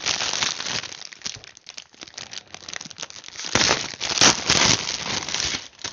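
Plastic packaging crinkling and rustling as it is handled, a dense irregular rustle that grows louder for a couple of seconds in the second half.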